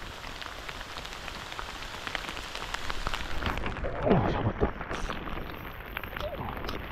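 Rain falling steadily, with many small drop hits. About four seconds in, a brief swish falling in pitch as the spinning rod is swung overhead for a cast.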